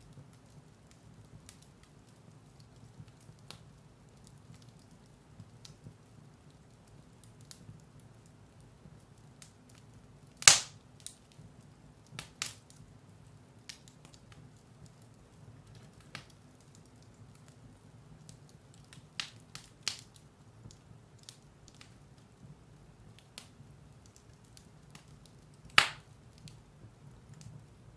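Firewood burning in a fireplace: scattered sharp crackles and pops over a low steady rumble, with one loud pop about ten seconds in and another near the end.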